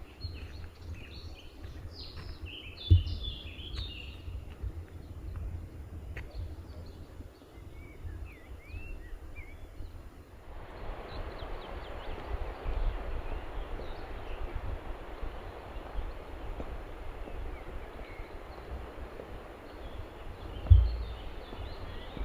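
Outdoor ambience with small birds chirping in quick bursts during the first half, over a low rumble. About halfway a steady rushing noise comes in and holds. Two sharp thumps fall near the start and near the end.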